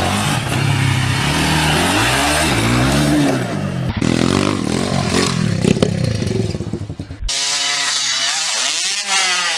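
Motocross dirt bike engine revving up and down as it is ridden, the pitch rising and falling repeatedly. About seven seconds in the sound changes abruptly, losing its low rumble.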